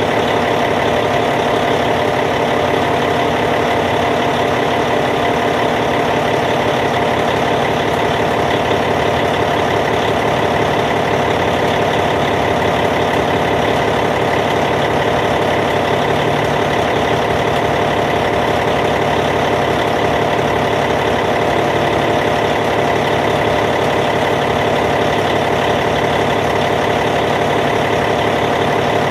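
Caterpillar C15 diesel engine of a Cat D8T bulldozer idling steadily, with an even, unchanging note.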